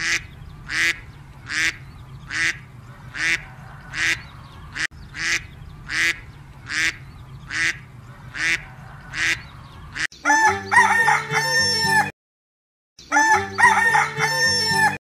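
Domestic fowl call about a dozen times in a row, short sharp calls evenly spaced a little under a second apart. At about ten seconds in, a jingly music track takes over, breaking off briefly for about a second near the end.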